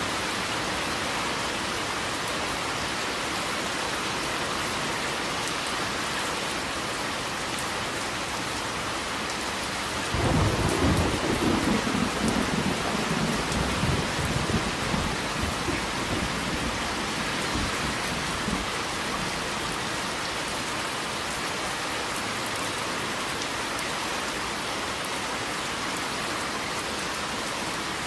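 Steady rain falling, with a roll of thunder that breaks in suddenly about a third of the way through, rumbles unevenly for several seconds and fades away.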